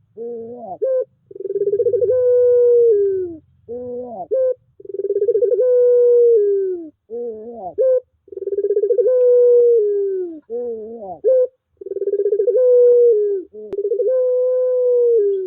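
Puter pelung dove cooing: a long drawn-out coo of about two seconds, falling slightly at its end, then a short run of broken rising notes. The phrase repeats evenly, about every three and a half seconds.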